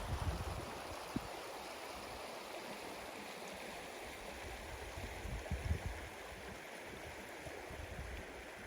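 Steady rushing of flowing river water, with low rumbles just after the start and again about five to six seconds in.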